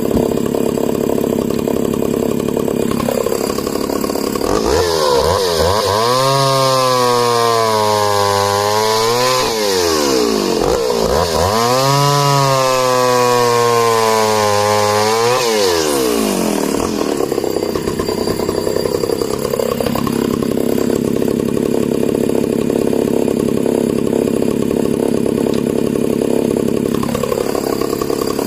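Echo CS-602VL two-stroke chainsaw running at full throttle, its pitch dropping and wavering under load as it cuts through wood for about ten seconds. It then revs freely again at a steady high pitch.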